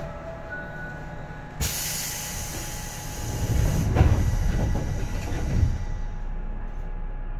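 Seibu 2000 series electric train heard from inside. A sudden hiss of air starts about a second and a half in and fades away over the next few seconds, and a heavy low rumble with two thuds comes in the middle.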